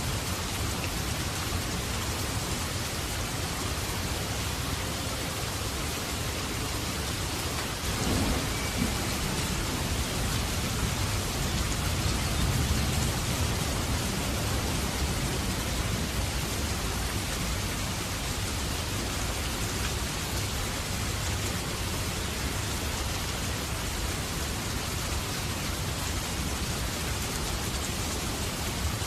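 Steady heavy rain, with a low roll of thunder that begins about eight seconds in and swells for several seconds before fading back into the rain.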